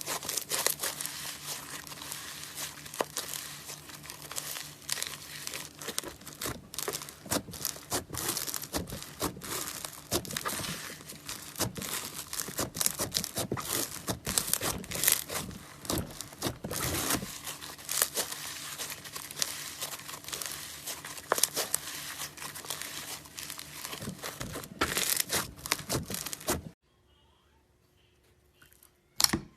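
Slime being squeezed and pressed by hand, a dense run of crackling pops and sticky tearing sounds. It stops abruptly near the end, leaving near silence and a single sharp click.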